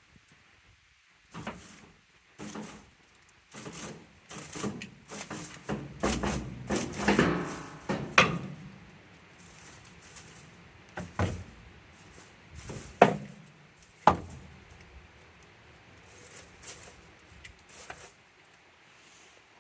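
A young male goat rubbing and scraping its horns against a hard surface: irregular bursts of scraping and rattling, thickest in the first half, then three sharp knocks.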